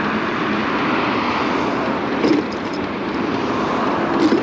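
Steady rush of wind and road noise while riding a MiniPro Mi716 electric scooter, with a brief knock about two seconds in.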